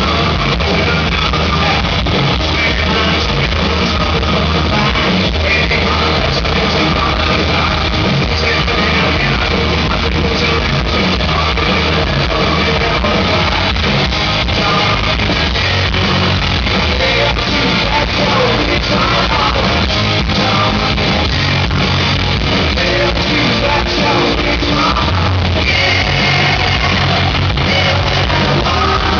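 Hard rock band playing live and loud: distorted electric guitars and drums with a male singer's vocals, recorded from the hall.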